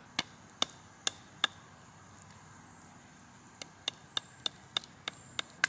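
Sharp wooden knocks as a knife is driven down into the top of a branch to split it. Four knocks come in the first second and a half, then after a pause a quicker run of about eight, roughly three a second.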